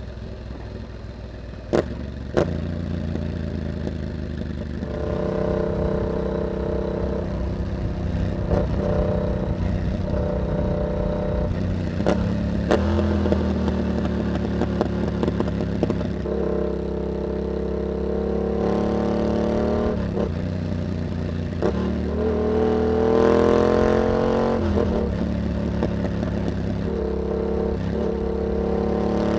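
Yamaha MT-07's parallel-twin engine through an aftermarket carbon exhaust with a dB killer, pulling up and easing off through the gears as the bike rides a winding road, the pitch rising and falling. Two sharp clicks come about two seconds in.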